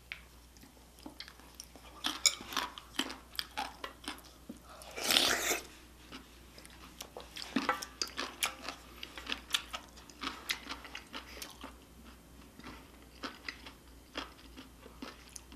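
Close-miked chewing of crunchy kimchi, a run of short crisp crunches, with one louder half-second noise about five seconds in.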